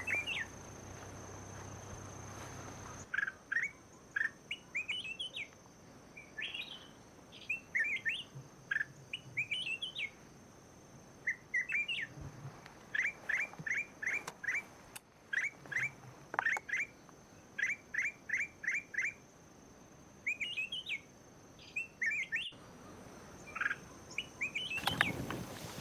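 Small wild birds chirping over and over: short rising chirps, some in quick runs of four or five, with a steady thin high tone underneath. A burst of noise comes near the end.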